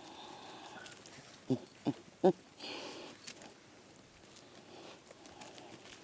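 A dog giving three short, pitched yips about one and a half to two and a half seconds in, the last the loudest, followed by a brief soft hiss.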